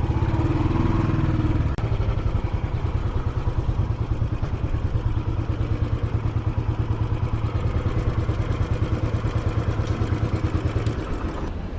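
Royal Enfield Classic 500's single-cylinder engine running steadily, with a rapid, even pulsing beat; the note dips briefly about two seconds in and drops away near the end.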